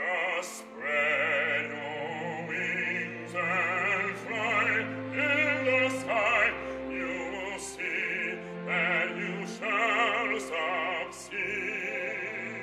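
Operatic singing: a solo voice sings a phrase with wide vibrato over sustained low accompaniment, broken by short gaps between words.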